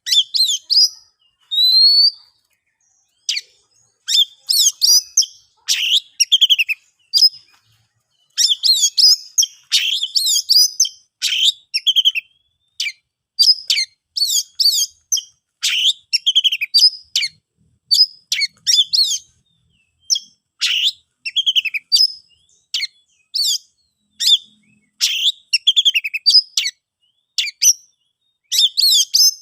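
Oriental magpie-robin (kacer) singing: a fast run of varied whistled and chirped phrases, each a second or so long with short gaps between, opening with a few clean rising whistles.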